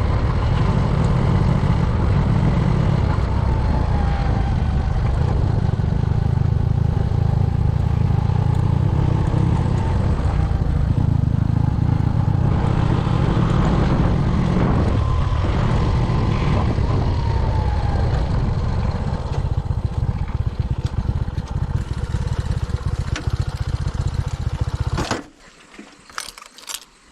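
Motorcycle on the move: the engine runs under a heavy low rumble of wind on the microphone. The noise drops away abruptly about 25 seconds in, leaving a few faint clicks.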